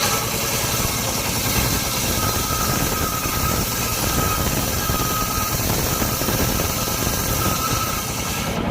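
Engine of a mobile circular-saw rig running steadily, with a faint whine that comes and goes over a constant hiss. The hiss drops away suddenly just before the end.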